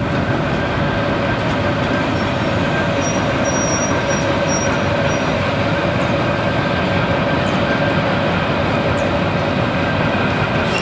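Train running at a station: a steady rumble with a constant hum, and a few brief high squeals from about two to five seconds in.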